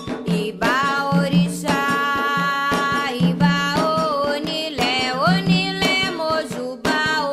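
Candomblé chant for Xangô: singing that glides between held notes over steady, rapid hand-drum beating on atabaques.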